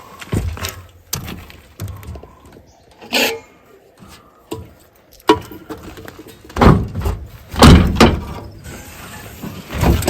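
Irregular metal clunks and knocks from climbing onto an old Poclain 115 excavator's steel body and swinging open a strut-held hatch or door. The loudest knocks come in a cluster about seven to eight seconds in.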